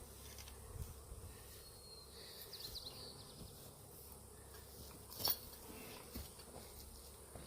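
Honeybees from an upset, broken-open hive buzzing around, with a sharp click about five seconds in.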